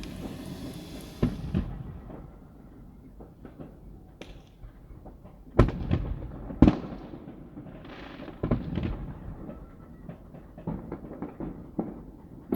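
Fireworks going off: a hissing crackle at the start, a bang about a second in, then two loud sharp bangs about a second apart near the middle, with softer pops and crackles in between.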